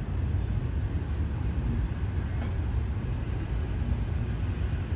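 Train rolling away along the track: a steady low rumble of wheels on the rails.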